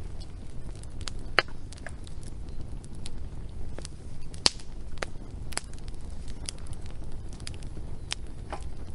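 Wood fire crackling: irregular sharp pops and snaps over a steady low rumble, the loudest pops about a second and a half in and about halfway through.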